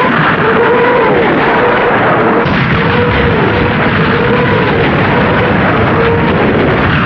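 Katyusha rocket launcher firing a salvo: a continuous rushing roar of rockets leaving the rails. Over it, a howling tone rises and falls about once a second as rocket follows rocket, the sound that earned the launcher the name 'Stalin's Organ'.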